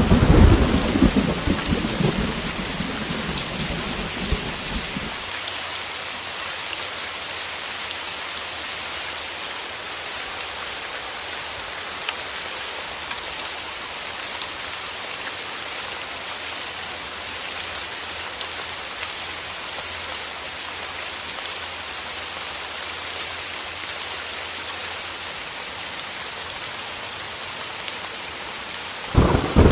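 Heavy rain falling steadily on a window, an even hiss. A low rumble of thunder dies away over the first few seconds, and another rumble breaks in right at the end.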